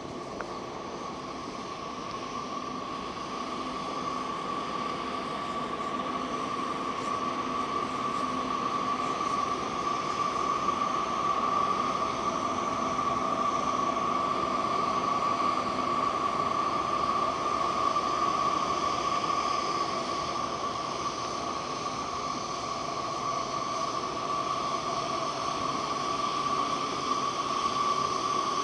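Steady mechanical rushing noise with a constant whine in it, growing louder over the first several seconds and then holding steady.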